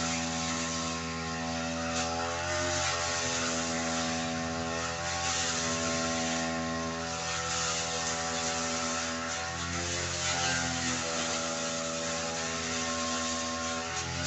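Brush cutter engine running steadily while cutting thick grass, its pitch dipping and recovering slightly a few times as it meets the load.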